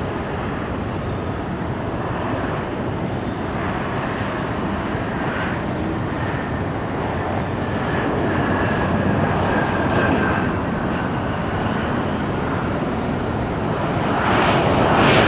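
Jet airliner engines at an airport runway: a steady rushing noise with a faint high whine, growing louder near the end.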